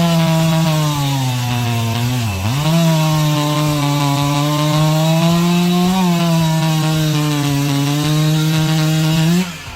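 Husqvarna 371 XP two-stroke chainsaw running at high speed while cutting through wood. Its pitch dips briefly under load about two and a half seconds in and then recovers. It cuts off suddenly near the end.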